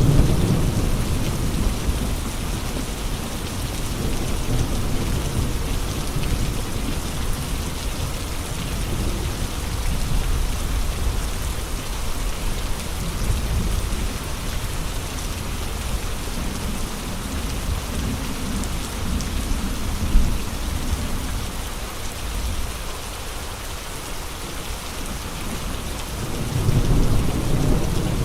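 Steady heavy rain with strong, gusty wind. Low rumbling swells rise and fall every few seconds, and there is one brief sharp crack about twenty seconds in.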